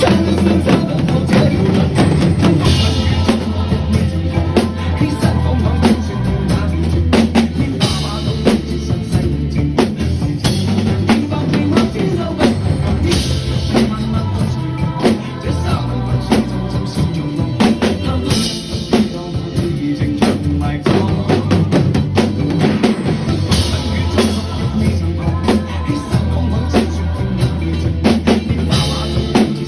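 A drum kit played along to a pop backing track: a steady groove of kick and snare hits, with brighter cymbal crashes every few seconds over the backing music.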